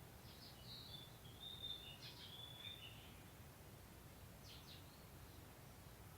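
A songbird singing a faint phrase of clear whistled notes lasting about three seconds, then two quick chirps about four and a half seconds in, over a steady low background hum.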